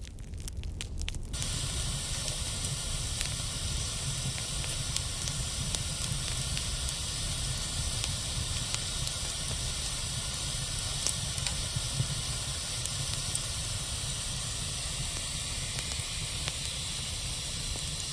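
A fire burning with a steady loud hiss and scattered faint crackles. About a second in, the sound changes suddenly from sparser crackling to this denser hissing.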